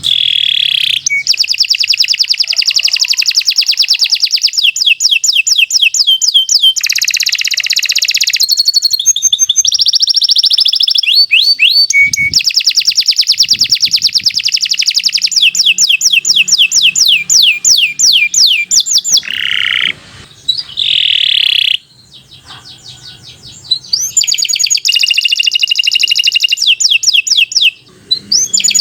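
Domestic canary singing a long, unbroken run of rapid trills and quick repeated high notes, with a brief pause about three-quarters of the way through.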